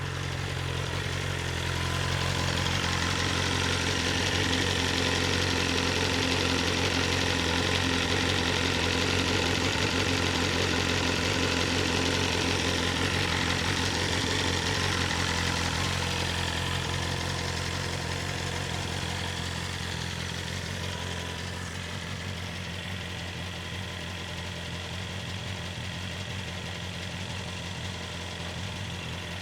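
BMW S1000RR's inline-four engine idling steadily after a cold start, with no pops or bangs. It runs a little louder through the first half, then eases down to a quieter idle.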